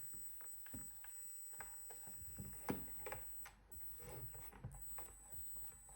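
Faint, irregular clicking and ticking from the Oversky MXL-RX62H V2 receiver's integrated micro servos, trying to drive and failing. The servos' gears are jammed, so the motors strain without turning.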